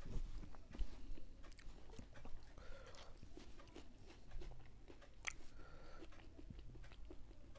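Close-miked chewing of food, with scattered small mouth clicks and a sharper click about five seconds in.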